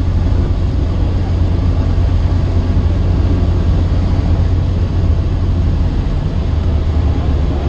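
Cessna 152's four-cylinder Lycoming engine and propeller droning steadily, heard inside the small cockpit.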